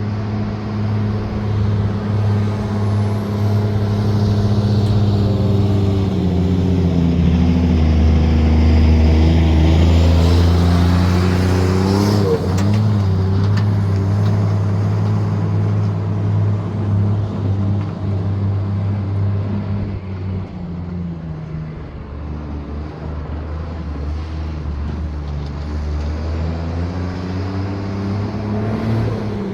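International S1900's DT466 inline-six turbo diesel running under load, its engine speed falling and rising several times. There is a short sharp burst of noise about halfway through.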